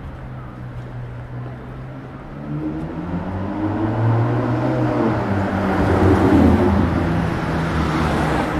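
A motor vehicle passing close by on a city street. Its engine hum and tyre noise grow louder from about two and a half seconds in, peak around six seconds in, then begin to fade.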